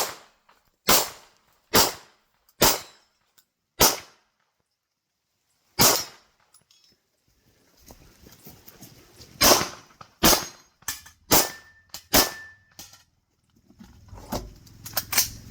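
Single gunshots fired one at a time, about a second apart at first, then a pause of about three and a half seconds, then more shots in quicker succession and a few fainter ones near the end.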